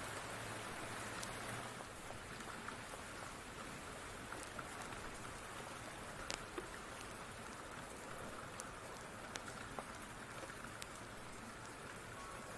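Steady rain falling on a surface, an even hiss with scattered sharp ticks every second or so.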